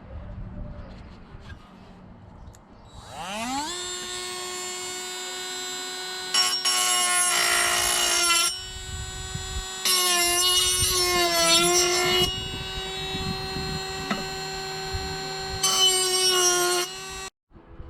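High-speed power tool spinning up, then running steadily and cutting in three louder, rougher stretches, its pitch sagging under load in the middle one. It stops abruptly near the end.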